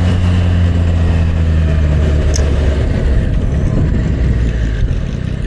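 Motorcycle engine running at a steady low note under wind and road noise. The engine note grows less distinct about three seconds in.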